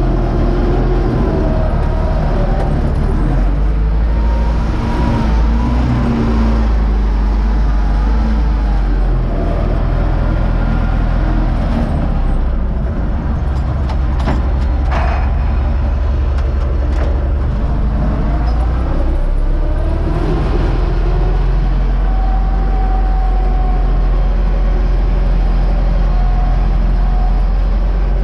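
U650 tractor's diesel engine running steadily under load while pulling a seed drill, with a deep, even hum. A few sharp rattles come about halfway through.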